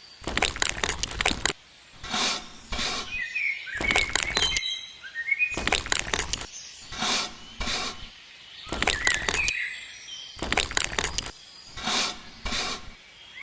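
A series of short crunching, breaking bursts, each about half a second to a second long, with birds chirping in the gaps between them.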